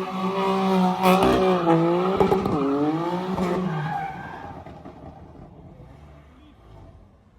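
Car spinning at a meet: engine held high in the revs with tyres squealing in wavering tones. The sound fades away over the second half.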